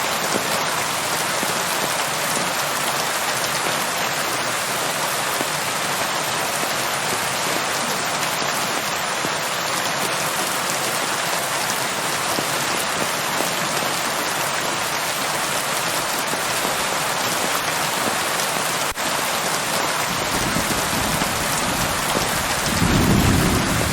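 Steady rain falling and pattering on surfaces. Near the end a low rumble of thunder comes in and swells in the last second or so.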